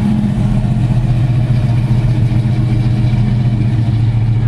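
A car engine running steadily at an even, low pitch.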